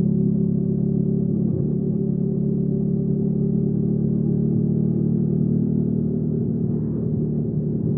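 Hyosung GV300S Aquila motorcycle's V-twin engine and exhaust running at a steady, nearly constant speed, a low even drone with little change in pitch.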